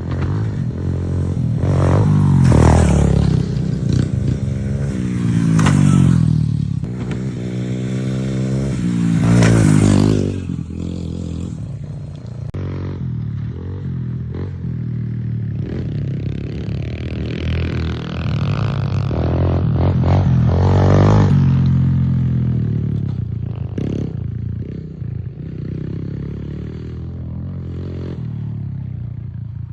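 Off-road dirt-bike-type engine revving up and down repeatedly, with several sharp throttle rises in the first ten seconds and another long rise about two thirds of the way in, over scraping and clattering from the ride.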